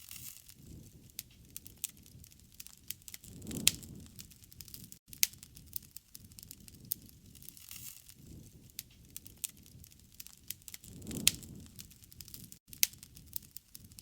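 Wood campfire crackling, with irregular sharp pops and snaps over a low rushing of flames. The low rush swells twice, a few seconds in and again near the end.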